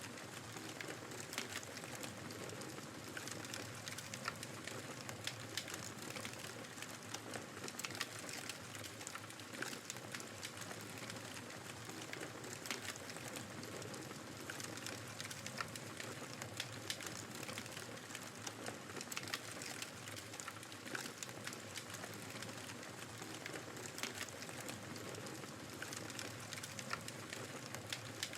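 Wood fire crackling in a fireplace, with frequent small sharp pops, over the steady rush of blizzard wind.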